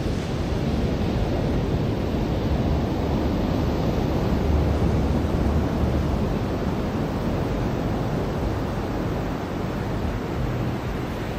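Ocean surf washing onto a beach: a steady rushing wash that swells a little about halfway through and then eases.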